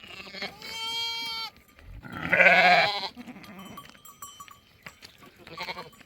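Goats or sheep of a herd bleating three times: a steady call about half a second in, a louder, harsh, wavering bleat about two seconds in, and a short call near the end.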